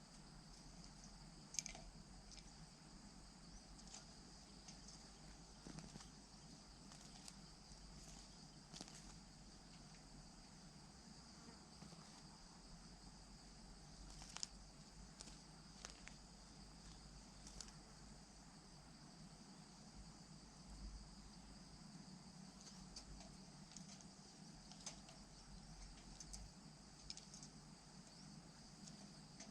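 Near silence: a faint steady insect drone with scattered small clicks, the loudest about a second and a half in and again near the middle.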